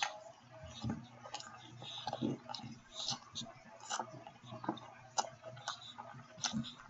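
Close-up chewing of a steak sandwich: wet mouth smacks and clicks at an irregular pace, about two a second.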